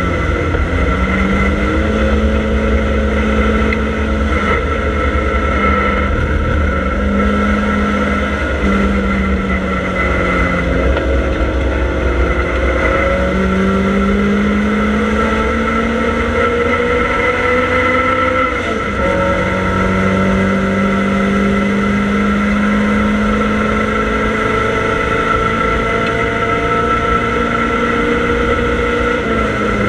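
Triumph Dolomite Sprint's 2.0-litre 16-valve four-cylinder engine heard from inside the cabin under race load. The engine note climbs steadily through long pulls and drops abruptly a few times, most clearly about two-thirds of the way in.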